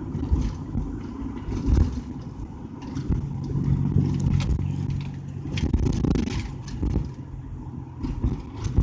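Car being driven, heard from inside the cabin: a steady low engine hum and road rumble, with a few light clicks and knocks.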